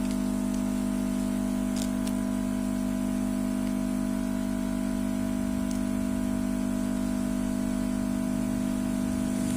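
Steady, unchanging hum with a few faint ticks.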